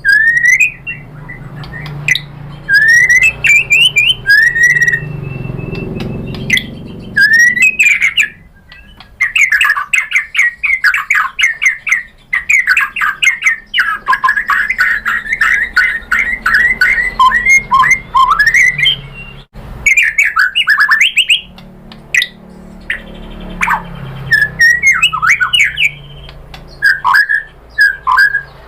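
White-rumped shama singing: loud whistled phrases and glides, with a long fast run of rapidly repeated notes through the middle, and sharp clicking notes in between.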